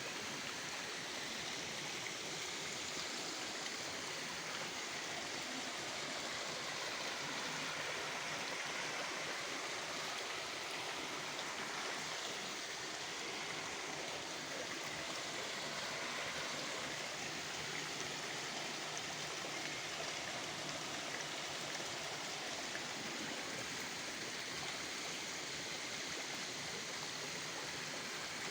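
Steady rushing of flowing water, an even hiss with no distinct events.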